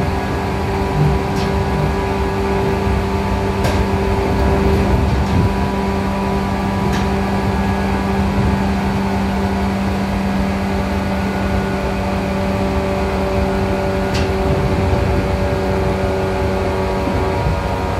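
Running sound inside the motor car of a 415 series 100 subseries electric train, MoHa 415-123, cruising at steady speed: a constant droning hum over the rumble of wheels on rail, with a few sharp clicks along the way.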